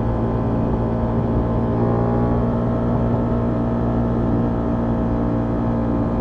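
Honda XL750 Transalp's parallel-twin engine and stock exhaust running at steady revs, a constant engine note with no change in speed through the stretch.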